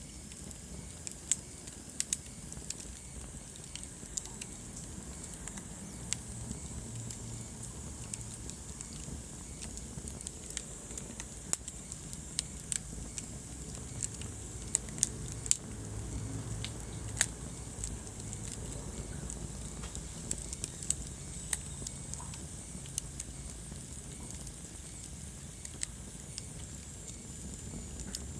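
Wood fire burning in a fireplace, crackling steadily with many sharp, irregular pops over a low rumble of the flames.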